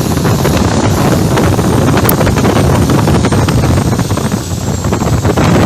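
Turbocharged diesel engine of a Thai longtail racing boat running hard with a loud, rough, rapid beat, wind buffeting the microphone.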